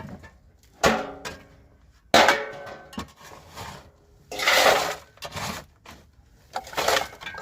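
Metal kitchenware clattering: pots and dishes knocked and set down, with several sharp clinks that ring on briefly, and two longer rattling clatters in the second half.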